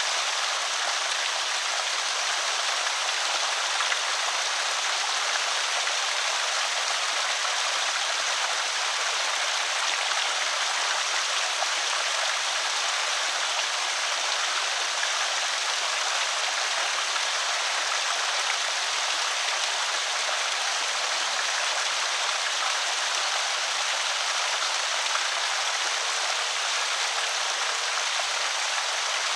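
Water pouring steadily over a small creek spillway, an even rushing splash that does not let up.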